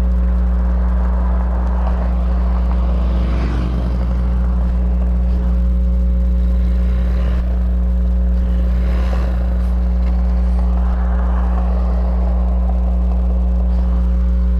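Hawk 250 motorcycle's single-cylinder engine running steadily while riding, with wind and road noise; its pitch shifts briefly about three and a half seconds in.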